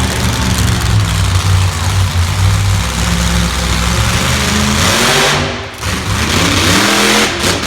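A monster truck's engine running loud and steady, then dropping away about five seconds in.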